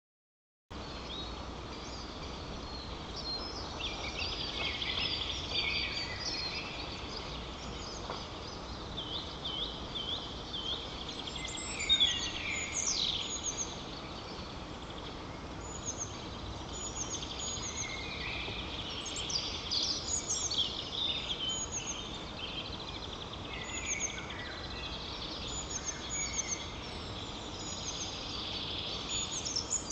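Wild birds calling and singing: many short, high chirps and trills throughout, with one louder call about twelve seconds in, over a steady low background noise.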